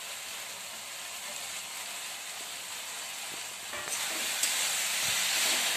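Cabbage and spice paste sizzling in a hot metal kadhai on a gas stove; about four seconds in the sizzle grows louder as chopped tomatoes land in the pan, with a light clink of metal.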